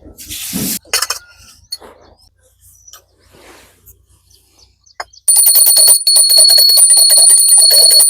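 A small metal bell ringing fast and without a break for about three seconds, starting about five seconds in. Before it come a few soft knocks and rustles.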